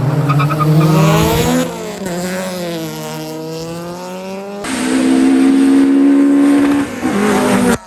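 Race car engines running hard at high revs, their pitch falling and then climbing again. About halfway through the sound cuts abruptly to an engine holding a steady high note.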